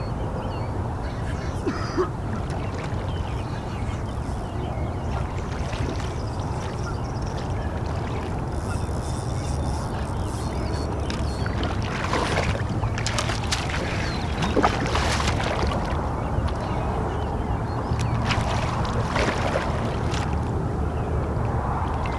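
Wind rumbling on the microphone at the water's edge. In the second half there are scattered splashes and sloshes as a hooked carp thrashes in the shallows while it is landed.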